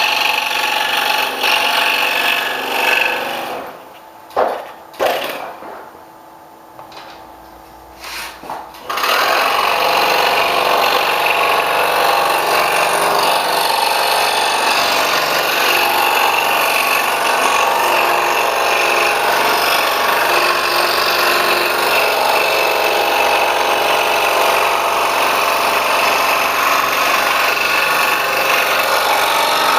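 Scroll saw cutting wood, running steadily with an ultra reverse tooth blade. The saw stops about three and a half seconds in, a few knocks sound during the pause, and it starts cutting again about nine seconds in.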